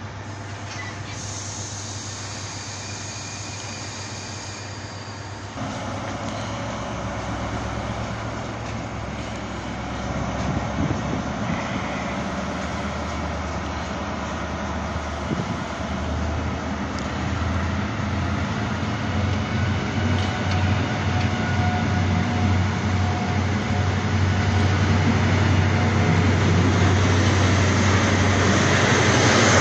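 Great Western Railway InterCity 125 (HST) pulling out: its Mk3 coaches roll past gathering speed, with a regular clatter of wheels over the rail joints. The diesel rumble grows louder toward the end as the rear Class 43 power car nears.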